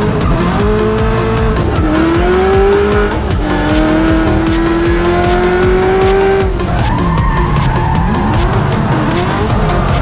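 Drift car engine revving hard. Its pitch climbs and drops back at shifts about two and three seconds in, then rises and falls on the throttle through the second half, with tyres skidding and squealing. Electronic music with a steady beat plays over it.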